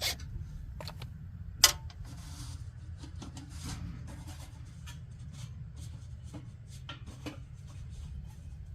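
Scattered small clicks and taps of hand tools and metal bolts being worked while unbolting an assembly from a forced-air heater, with one sharper click about a second and a half in, over a steady low hum.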